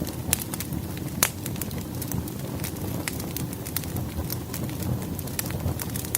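Firewood burning in a fireplace: a steady low rush of flame with frequent sharp crackles and pops, the loudest a little over a second in.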